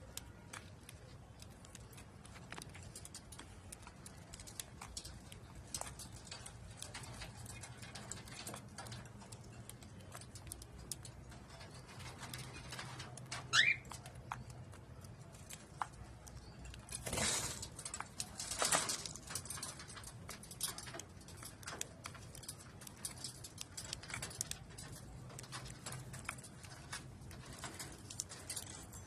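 A cockatiel gives one short, sharp call about halfway through. Faint scattered taps and clicks run throughout, and a couple of louder rustling bursts follow a few seconds after the call.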